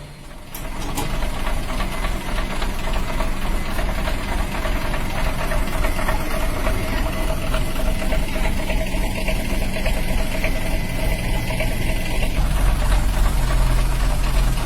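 An engine running steadily, after a brief drop in level at the very start.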